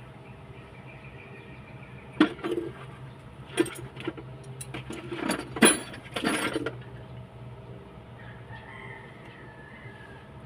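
Metal tools clinking and knocking against engine parts: a run of sharp clinks for about four seconds in the middle, over a steady low hum. A rooster crows faintly near the start and again near the end.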